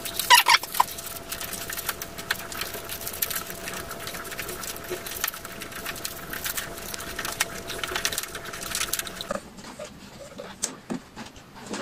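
Plastic wrapping tape being wound tightly around an air-conditioner drain hose joint, a dense run of crackling and rustling that stops about nine seconds in.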